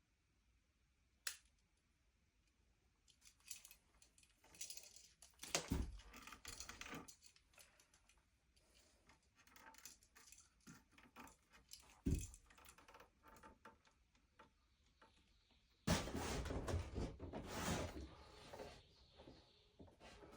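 Intermittent handling noise: a sharp click, scattered rattling and clattering of small hard objects, two dull thumps, and a louder stretch of rattling near the end.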